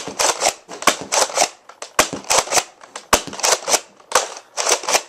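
Nerf Clear Series Deploy dart blaster being primed and fired again and again: sharp plastic clacks and short air puffs in groups of about three, repeating roughly once a second.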